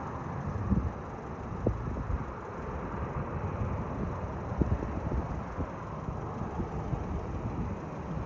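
Steady roar of a jet airliner's engines, with wind gusting on the microphone.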